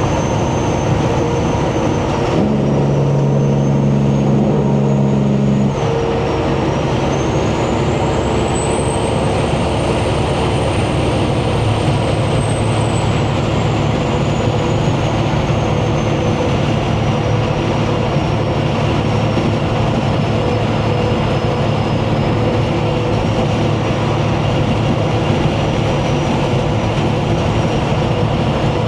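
Semi-truck engine and road noise from inside the cab while driving, steady throughout, with a thin high whine that slowly rises and falls. A couple of seconds in, a lower steady tone joins for about three seconds.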